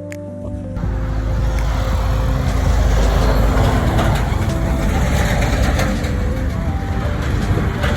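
Steady road-vehicle noise with a deep rumble, rising about a second in, with light background music carrying on underneath.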